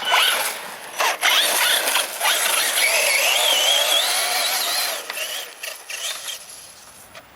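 Brushless electric motor of an HPI Savage Flux XL 1/8-scale RC monster truck on a 6S LiPo, whining under throttle in short bursts, then in a longer pull whose pitch climbs over a couple of seconds. The whine drops away about five seconds in.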